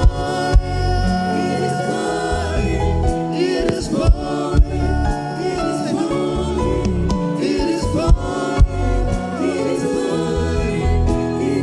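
Gospel worship music: a choir and singers holding a slow melody over a band with bass. Sharp hits come in pairs about half a second apart, roughly every four seconds.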